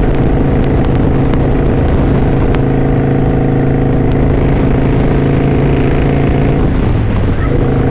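A 2009 Kawasaki Vulcan VN900 Classic LT's V-twin engine running steadily while riding. Near the end its revs dip briefly and come back.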